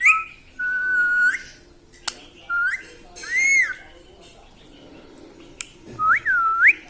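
Indian ringneck parakeet whistling a series of about five short notes: a held note that rises at its end, short upward slides, an arching note, and a dipping swoop near the end.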